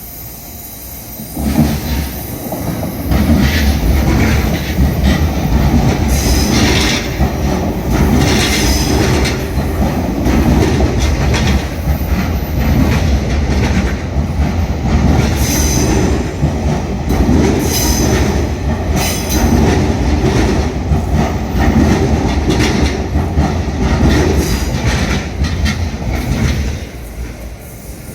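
JR East E657-series electric limited express train passing close by: a steady rumble of wheels on rail, with repeated clacks as the wheels run over rail joints. It builds up about a second and a half in and dies away near the end.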